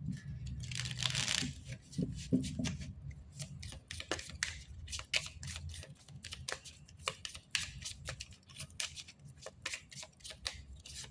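Oracle cards being shuffled and handled. A short swish of sliding cards comes about a second in, then a long run of small, irregular card clicks and snaps.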